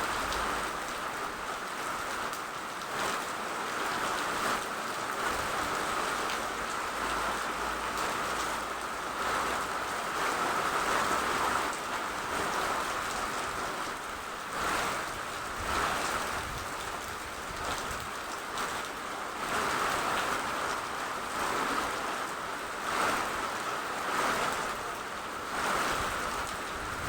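Steady rain, with brief heavier surges every few seconds.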